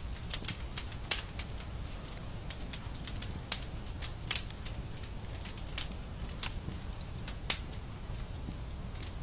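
Wood fire in a fireplace crackling, with irregular sharp pops and snaps, a handful louder than the rest, over a steady low rumble.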